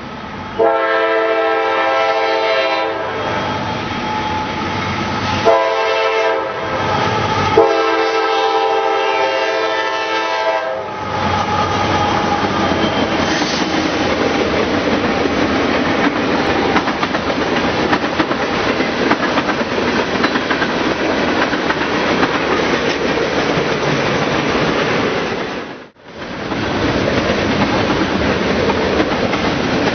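Freight locomotive horn blowing a long, a short and a long blast at a grade crossing, then the train passing close by with steady rumble and clickety-clack of the wheels over the rail joints.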